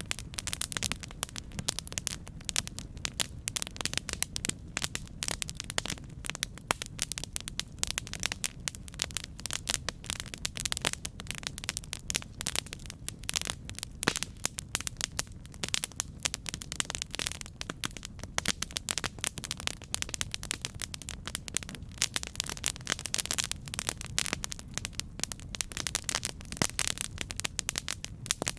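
Campfire crackling: a dense, irregular stream of sharp pops and snaps over a steady low rumble of burning.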